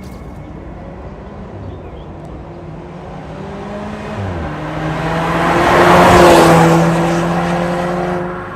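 Volvo V60 B5's 2.0-litre turbocharged four-cylinder engine running through an MS-R valved cat-back exhaust as the car accelerates. Its pitch drops for a moment a little after four seconds in. The exhaust then swells to its loudest about six seconds in and fades somewhat near the end.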